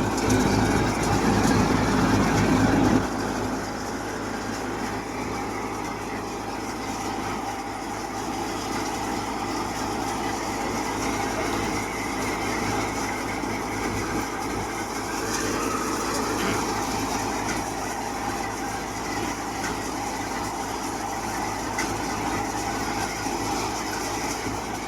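A multi-crop paddy thresher driven by a Powertrac tractor, running with a steady mechanical drone over the tractor engine's hum. About three seconds in, it drops noticeably in loudness and then stays even.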